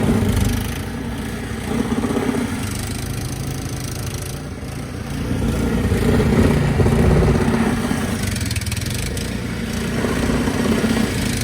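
An engine running steadily, swelling louder and easing off several times, strongest about half a second in and again around six to seven seconds in.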